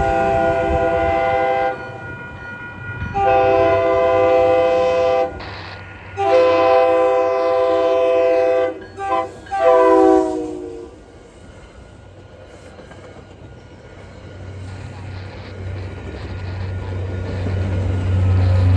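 Commuter train locomotive's multi-note air horn sounding for a grade crossing: three long blasts, a short one, then a final blast that drops in pitch as the train goes by. After a lull, the low rumble of an approaching train builds toward the end.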